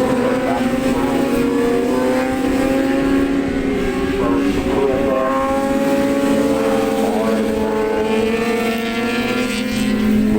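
Engines of several Supersport racing motorcycles running at high revs as the pack laps the circuit, their pitch drifting slowly down and back up.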